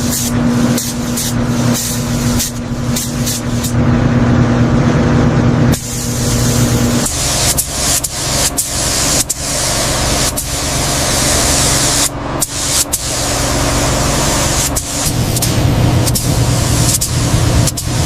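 Car engine running with a steady hum under heavy rushing road and wind noise, broken by many brief dropouts.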